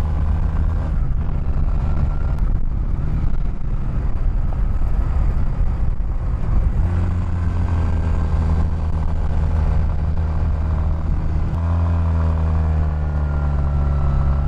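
Honda 250 cc cruiser motorcycle engine running under way, heard from the rider's seat. The engine note firms up about halfway through and changes abruptly again a few seconds later.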